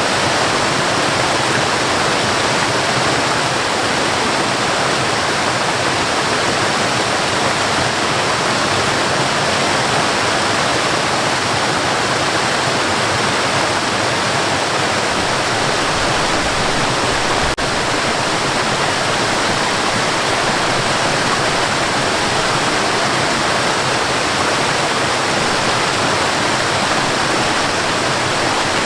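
Waterfall: a steady, dense rush of falling water with no change or let-up.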